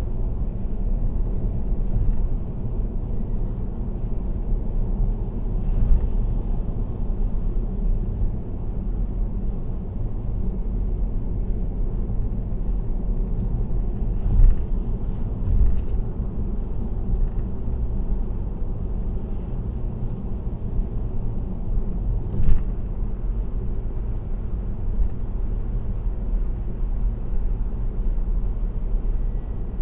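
Steady road and tyre noise of a car cruising on an expressway, heard through a dashcam inside the car as a low rumble. A few brief thumps break through, about 6, 14 to 16 and 22 seconds in.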